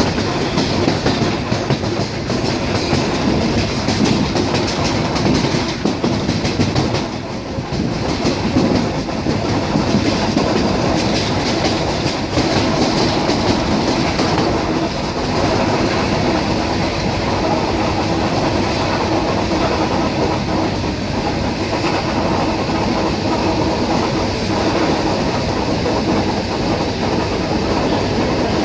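ER9T electric multiple unit running at speed, with a steady rumble and the clickety-clack of its wheels over rail joints, most distinct in the first several seconds.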